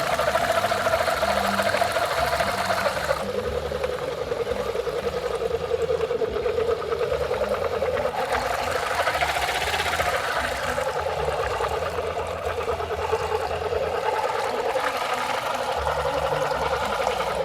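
Small electric motors and gearing of a homemade RC model tractor whining steadily as it drives a rotavator through soil. The pitch dips about three seconds in and rises again around nine to ten seconds.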